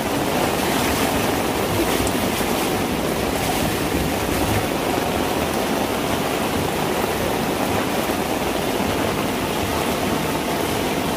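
Heavy rain pouring down steadily: a constant hiss of falling and running water.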